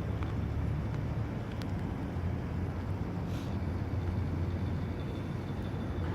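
Steady low rumble of vehicle engines and traffic, with a brief hiss a little past halfway.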